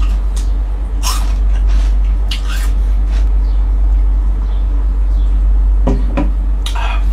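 Close-up eating sounds of a mukbang: scattered wet chewing and lip smacks, over a steady low hum.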